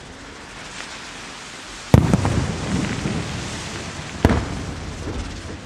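Aerial firework shells bursting: two sharp bangs about two seconds apart, each followed by a rumbling echo, over a steady background noise.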